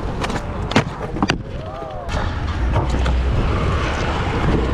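Skateboard wheels rolling on concrete, with a few sharp clacks of the board in the first second and a half. A low rumble of wind on the microphone comes in about halfway.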